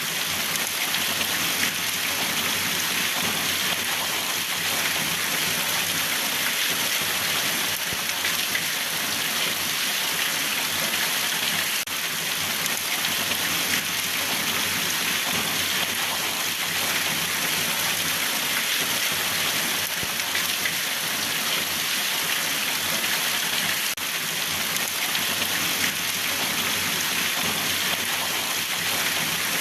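Steady rain falling, an even hiss of drops that holds without change.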